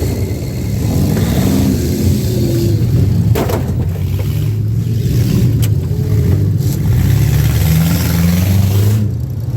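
Demolition derby cars' engines revving and running hard, with a few sharp bangs, the strongest about three and a half seconds in.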